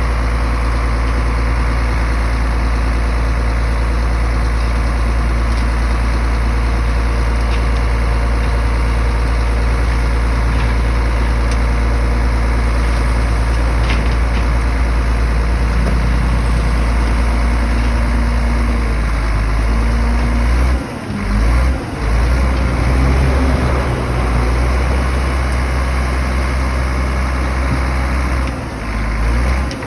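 Diesel engine of a heavy earthmoving machine running steadily under a low drone. Its tone shifts in the second half and cuts out briefly a few times, about two-thirds through and again near the end.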